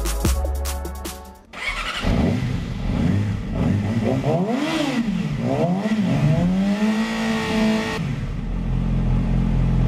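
Electronic music cuts off after about a second and a half. A Yamaha sport bike's engine is then revved, its pitch rising and falling with a few throttle blips. From about eight seconds in, a motorcycle engine runs steadily at idle.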